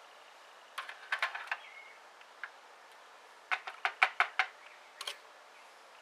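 Light, sharp clicks and taps of a steel pick working at a stuck part inside a diesel fuel injector, in two quick clusters with a few single clicks between.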